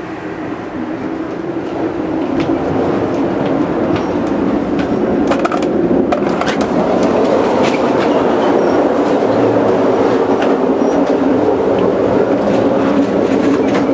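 Running noise of a moving Amtrak passenger train heard from inside the cars: a steady rumble of wheels on rail and car rattle that grows louder over the first few seconds, with scattered sharp clicks and knocks around the middle.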